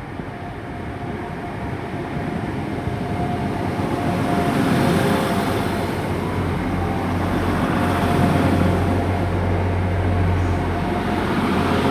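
Class 175 diesel multiple unit pulling away and running past close by, its engines working under power. It gets louder over the first few seconds, then settles into a steady low drone with wheel-on-rail rumble.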